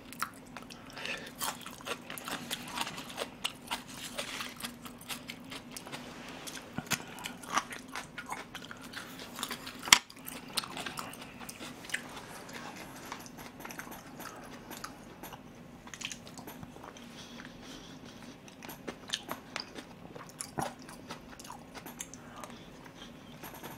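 Close-miked mouth sounds of a person eating soft rice porridge: chewing with many small irregular wet clicks, and one sharp click about ten seconds in.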